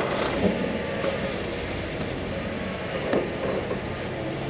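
A steady engine running, with a few sharp knocks over it.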